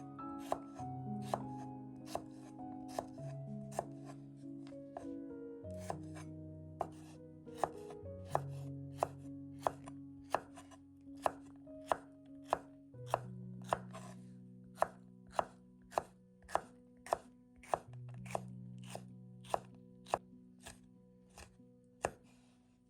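Knife chopping food on a cutting board in steady strokes, about two a second, over soft background music with held chords.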